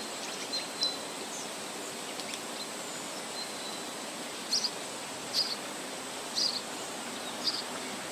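Faint high cheeps of newly hatched kestrel chicks, about once a second in the second half, over a steady hiss.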